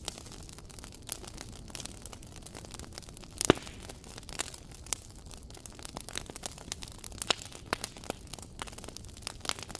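Wood fire crackling in a fireplace: irregular sharp pops and snaps over a low steady hiss of the flames, with one louder pop about three and a half seconds in.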